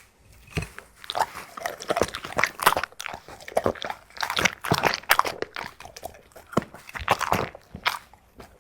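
A dog eating greedily, chewing and crunching its food in quick, irregular crunches.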